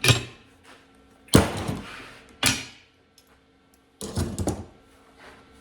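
Four sharp metallic clanks and knocks, each dying away quickly, from steel parts of a welded engine cart being handled and set down in a small shop.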